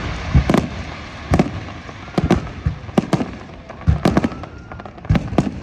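Fireworks salute going off: a rapid, irregular series of about a dozen bangs, deep booms mixed with sharper cracks.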